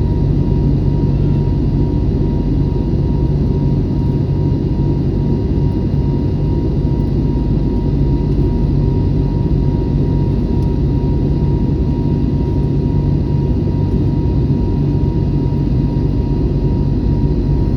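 Airbus A321neo jet engines and airflow: a steady, loud rumble with a thin constant whine above it, unchanging throughout.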